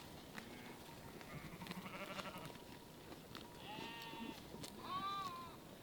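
Livestock bleating: several short, arched calls, faint around a second or two in, then two clearer ones near the end, the last the loudest.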